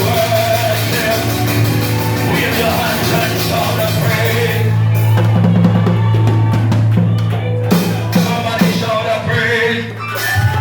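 Live church band music with drum kit and a steady bass line, with some singing or voice over it.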